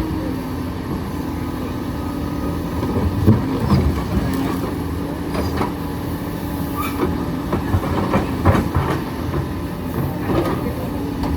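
Hydraulic excavator's diesel engine running steadily under load, with irregular metal clanks and knocks from the bucket and rock, several in the middle and latter part.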